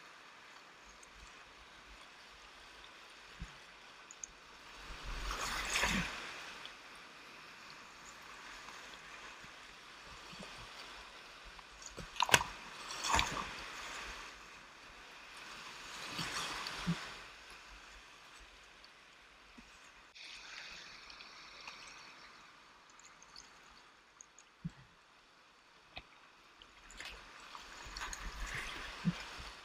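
Whitewater kayaking run: steady rushing and gurgling of river rapids, with several louder surges of splashing as a kayak moves through the water. There are a couple of sharp knocks near the middle.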